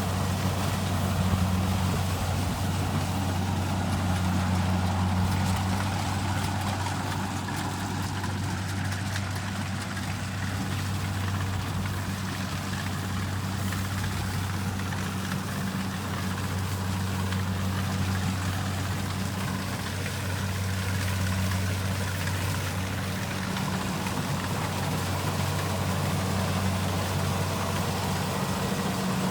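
Kubota rice combine harvester's diesel engine running steadily, a continuous low hum with mechanical noise over it.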